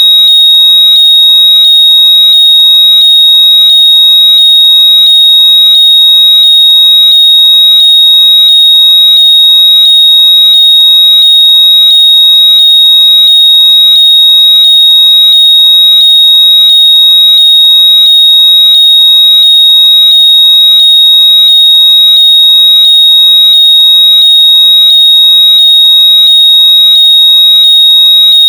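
Very loud, steady, high-pitched electronic tone near 4 kHz, played to locate lost earbuds by ear. Faint rising chirps repeat under it about every two-thirds of a second.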